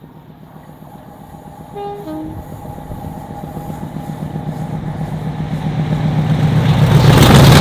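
Class 50 diesel locomotive approaching at speed, its English Electric 16-cylinder engine growing steadily louder and peaking as it passes near the end. About two seconds in it sounds a brief two-tone horn, a higher note followed by a lower one.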